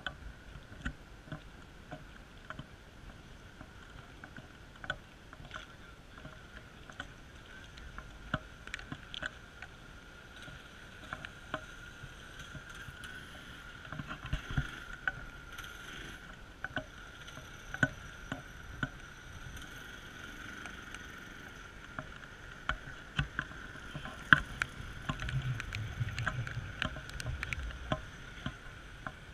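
Raindrops tapping irregularly on the camera over a steady hiss of rain, with a low rumble rising near the end.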